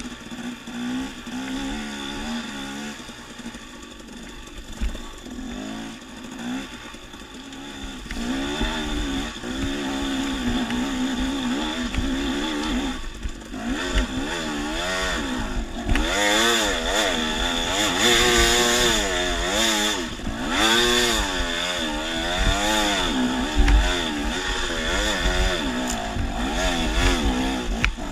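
Dirt bike engine revving up and down as the bike is ridden along a trail, getting louder about eight seconds in.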